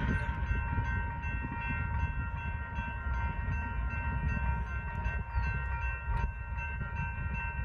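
Union Pacific diesel freight train at a grade crossing: a low, steady rumble of the locomotives and train, with a steady chord of high ringing tones over it.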